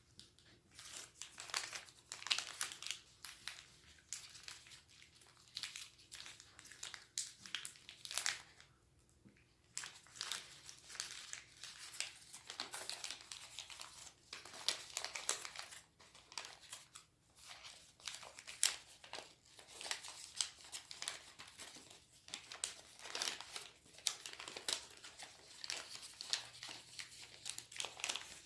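A sheet of paper being folded by hand: irregular rustling and crinkling with sharp little crackles as creases are pressed, pausing briefly about nine seconds in.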